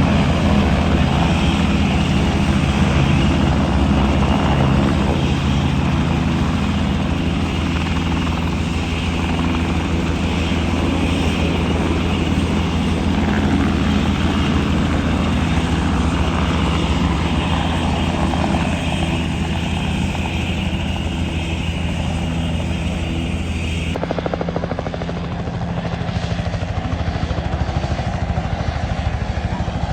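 Helicopter rotor running steadily with a fast regular beat. The sound changes abruptly about 24 seconds in.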